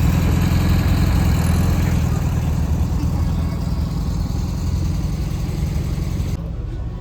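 Vehicle engine running with a steady low rumble and a hiss over it; the hiss drops away abruptly about six seconds in.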